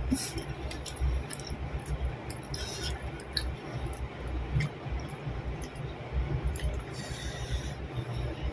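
Close-up wet chewing and mouth sounds of someone eating fried eggplant with raw chili sambal by hand, with irregular short smacks and squishes.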